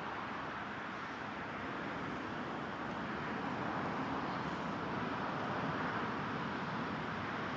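Steady outdoor ambient noise: an even hiss with no distinct events, growing slightly louder about halfway through.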